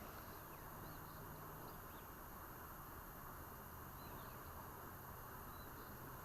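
Quiet open-air ambience: a steady faint hiss and low hum, with a few short, faint, high bird chirps scattered through it.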